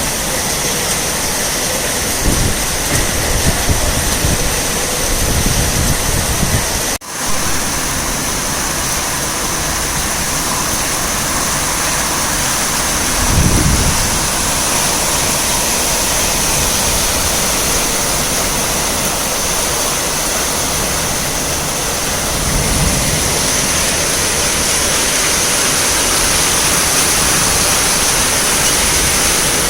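Heavy rain falling steadily, with a few low rumbles swelling and fading over the rain.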